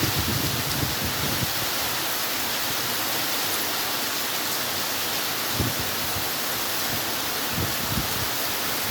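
Heavy squall rain pouring down in a steady, dense hiss, with a few brief low thumps along the way.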